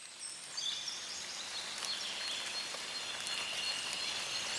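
Nature ambience fading in: high, short bird chirps and calls over a steady hiss, with a high steady tone joining a little past halfway.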